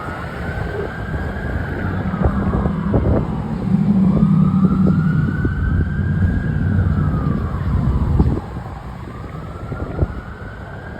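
Fire truck siren on a slow wail, rising and falling about every four to five seconds, over the low rumble of the truck's engine. The rumble swells and then drops away suddenly about eight seconds in as the truck goes past.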